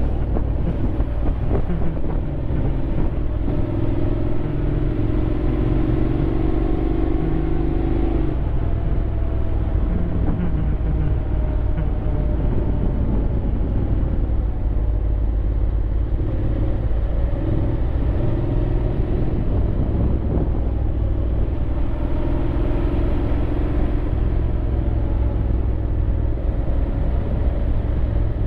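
Honda X-ADV 750's parallel-twin engine running steadily while riding, its pitch drifting slightly up and down, under a constant low rumble of wind on the microphone.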